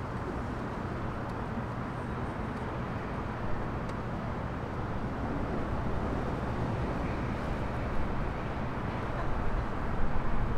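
Slow-rolling intermodal freight train: a steady rumble and rattle of cars on the rails with a low hum underneath, broken by a few sharp clanks, the loudest near the end.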